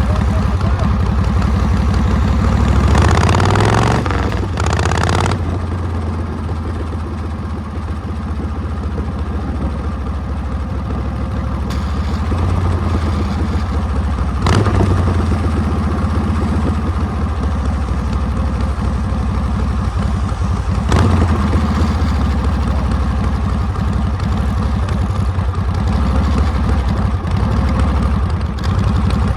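Harley-Davidson Panhead V-twin motorcycle engine running under way, its revs climbing about three seconds in and then dropping back. Two short sharp knocks come later.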